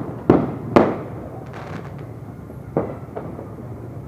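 New Year fireworks going off: a sharp bang about a third of a second in, a louder one just under a second in, and another near three seconds, with fainter pops in between over a steady low rumble.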